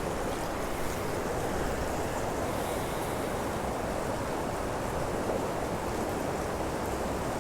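Canyon stream water running, a steady unbroken rush.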